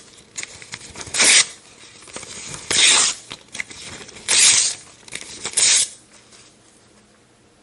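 Paper being torn in a series of rips, about five of them, each lasting a fraction of a second, with faint crackling between. The ripping stops about six seconds in.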